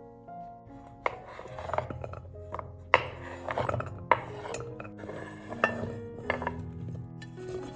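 Kitchenware being handled: a string of sharp knocks and clinks of utensils against dishes or cookware, the loudest about a second in, at three seconds, at four and near six seconds, over soft background music.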